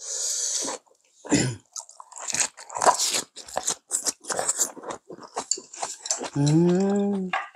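Close-miked chewing and crunching of a mouthful of steamed-cabbage rice wrap, many short crunches in a row. A short hiss comes at the start, and a long hummed 'mmm' of relish comes near the end.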